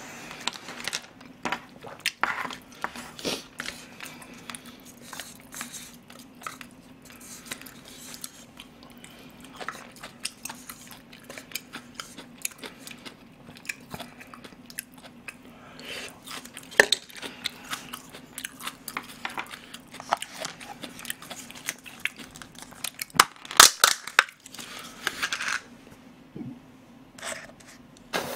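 Close-miked eating: chewing and biting mouthfuls of rice porridge and side dishes, with clicks of a plastic spoon, chopsticks and plastic cups. The clicks come irregularly, with the loudest cluster late on. A steady low hum runs underneath.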